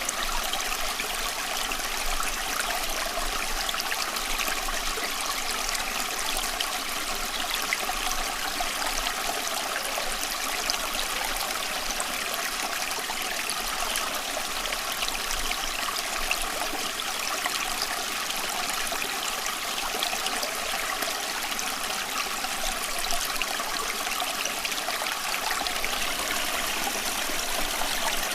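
Running water flowing steadily, with a fine, continuous trickling and splashing.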